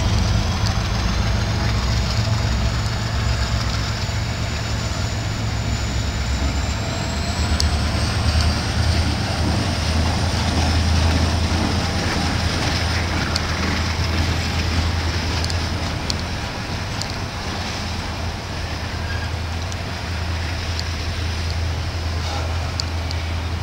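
Union Pacific double-stack intermodal well cars rolling past at track speed: a steady heavy rumble of wheels on rail with scattered light clicks. A thin high whine climbs in pitch about seven seconds in and then holds.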